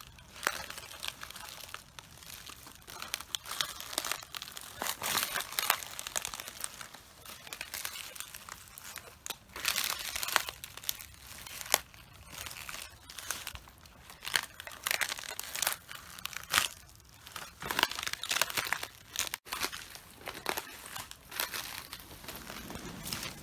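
Cabbage leaves crunching, crackling and tearing underfoot as someone walks on cabbages, in an uneven run of crisp crackles.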